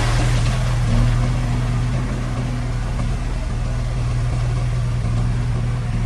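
Diesel engine of heavy construction machinery running steadily with a deep, even hum.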